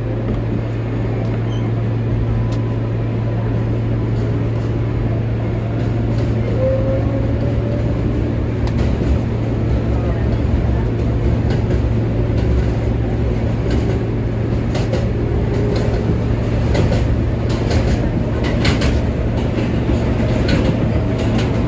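R143 subway train running between stations: a steady hum and rumble, with wheels clicking over rail joints, the clicks coming more often from about nine seconds in.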